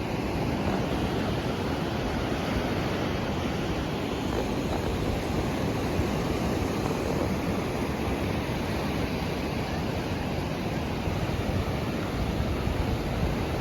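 Steady rushing wash of surf.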